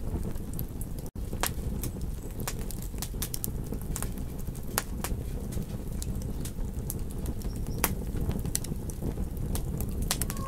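Campfire crackling: irregular sharp pops and snaps over a steady low rumble of burning wood, cut by a split-second dropout about a second in.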